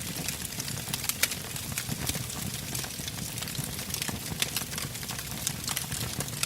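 Wood campfire crackling: irregular sharp pops and snaps from the burning logs over a steady low background.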